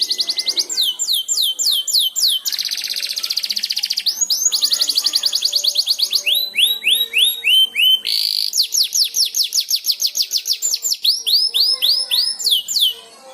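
Canary singing a long unbroken song of rapid, repeated down-slurred high notes, switching to a new phrase every second or two, with a fast buzzing trill about 2.5 to 4 seconds in. The song stops shortly before the end.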